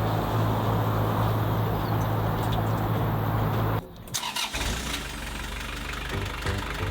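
Narrowboat diesel engine running steadily, then cutting off abruptly a little under four seconds in, leaving a quieter low, evenly pulsing run.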